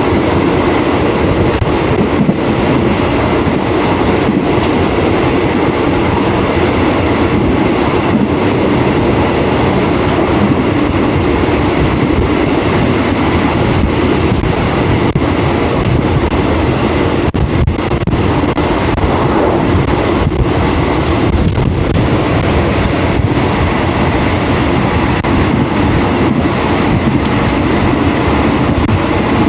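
Train running along the tracks: a steady, loud rumble with a few sharp clicks.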